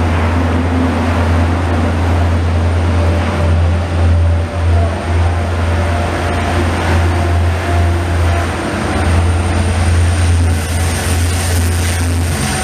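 Israel Railways double-deck passenger train pulling out of the platform, pushed by its diesel locomotive, whose engine gives a steady low drone under power over the rolling noise of the coaches. The noise grows harsher near the end as the locomotive draws level.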